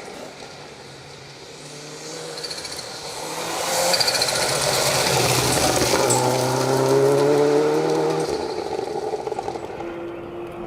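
Rally car engine at full throttle as the car passes on a special stage. It grows louder, stays loud for several seconds with the revs climbing, then fades as the car moves away.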